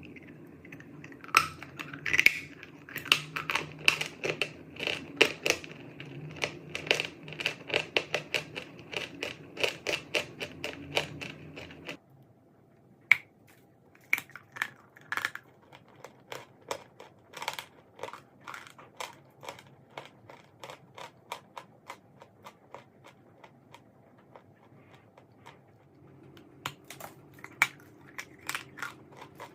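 Chalk being bitten and chewed: a run of sharp, dry crunches, dense for the first ten seconds or so, then sparser after the background hum stops abruptly.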